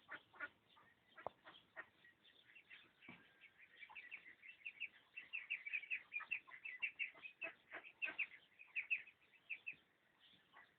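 Birds chirping: many short, high chirps, sparse at first, then a dense rapid run of them from about four seconds in until shortly before the end, with a few scattered clicks.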